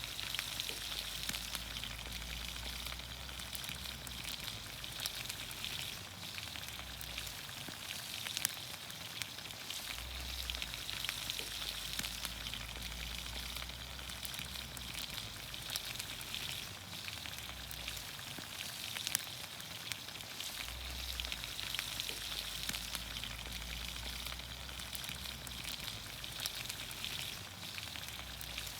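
Vegetables frying in olive oil in a pan over a campfire: a steady sizzle with frequent short pops and crackles. A low rumble comes and goes every few seconds underneath.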